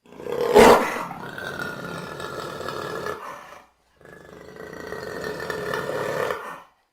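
Jaguar roaring twice: the first call, loudest just after it starts, lasts about three and a half seconds, then after a brief pause a second call runs nearly three seconds.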